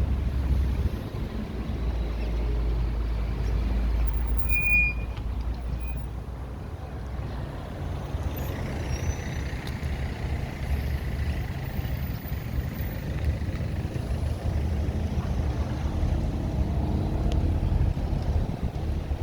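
Passing street traffic: the low rumble of a heavy vehicle's engine for the first few seconds, easing off in the middle, then another vehicle rumbling past near the end.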